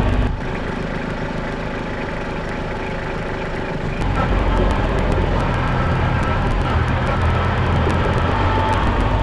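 Kubota diesel machine engine running steadily while working gravel. It drops to a lower level just after the start, then picks up again about four seconds in.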